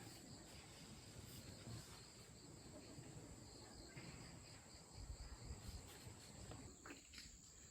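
Near silence with a faint, steady high-pitched chorus of insects. A few soft low rumbles come about five seconds in.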